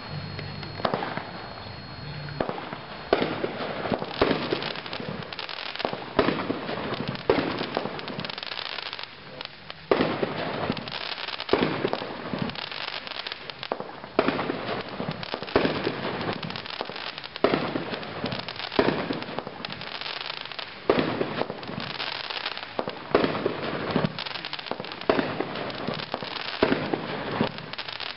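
Brothers 'Suspended Animation' firework cake firing shot after shot. Sharp reports come roughly once a second.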